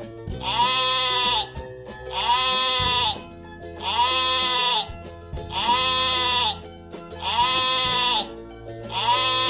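Sheep bleating: one long bleat repeated six times at an even pace, about every second and a half, over light background music.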